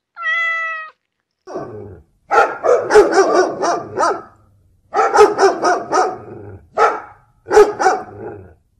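Dog barking in rapid bursts of several barks each, with short pauses between the bursts. A brief high, steady-pitched call comes just before the first bark.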